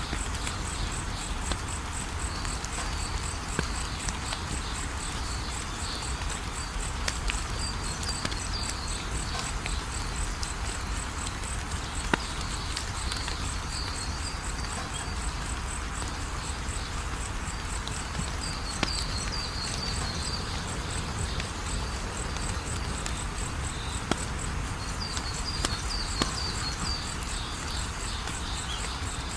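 Wood fire crackling, with scattered sharp pops, over a steady, fast, high-pitched chirping of insects and a few higher chirp clusters that come and go.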